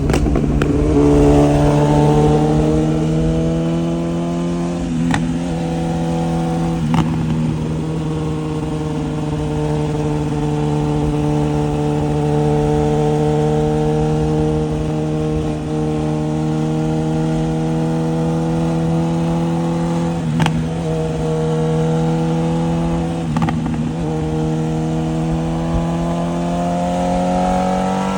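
BMW S1000RR inline-four running through a titanium full exhaust at a steady, sustained engine note as the bike holds speed, the pitch easing slightly at first and rising again near the end. A few brief sharp clicks cut through the engine sound.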